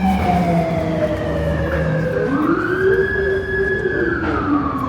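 Emergency vehicle siren wailing on a city street. Its pitch slides slowly down, then climbs again about halfway through and holds high before starting to fall near the end, over a low engine rumble.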